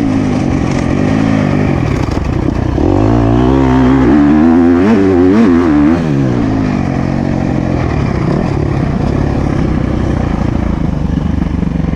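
Motocross bike engine being ridden hard, revving up and dropping back over and over through the gears, loudest and most wavering a few seconds in, then running more evenly.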